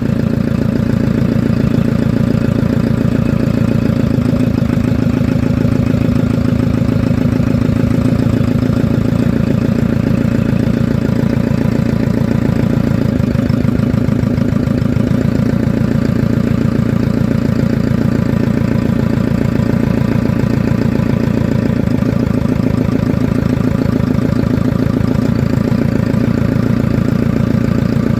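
JCB diesel engine running steadily at idle, its firing pulses even and unchanging.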